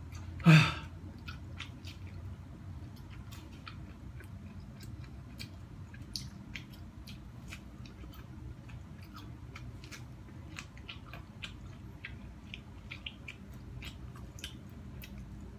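Corn on the cob being bitten and chewed close to the microphone: a string of small, irregular crunches and mouth clicks of kernels being chewed over a low steady hum. About half a second in there is one brief loud noise, the loudest sound of the stretch.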